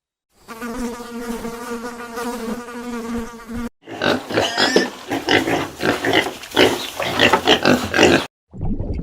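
A steady buzzing drone, like a flying insect, for about three seconds. It stops, and a different animal follows with a run of short, rough, irregular calls lasting about four seconds.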